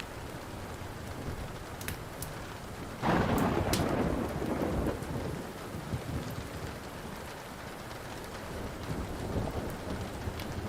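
Steady rain with a sudden thunderclap about three seconds in that rumbles away over the next couple of seconds. Occasional sharp pops from a crackling wood fire come over the rain.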